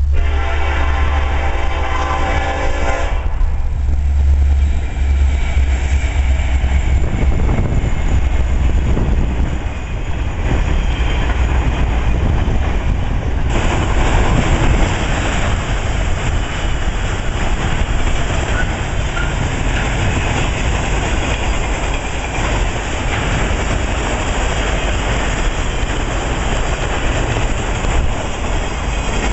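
Diesel freight locomotive's air horn sounding one chord for about three seconds at the start, as a crossing warning. After it come the rumble of the EMD SD70ACe locomotive drawing near and passing, then the steady rolling noise and wheel clatter of autorack cars going by, louder from about halfway through.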